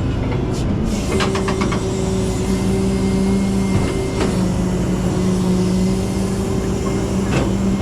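Flatbed tow truck's engine running with the hydraulics working as the bed is slid out from under the vehicle: a steady whine comes in about a second in over the engine rumble, with a quick run of clicks around then and a couple of single knocks later.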